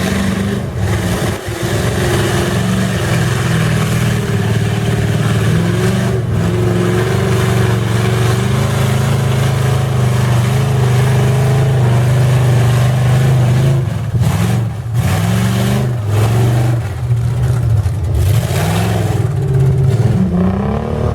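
Mud truck engine running hard under load, its pitch holding and stepping for a long stretch, then rising and falling in several revs near the end.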